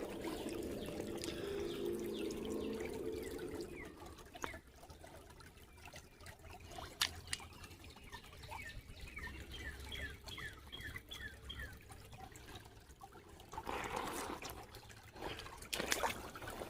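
Shallow creek water trickling, with a few sharp clicks like stones knocking together and a louder splashy stretch near the end. A run of quick descending chirps sounds in the middle.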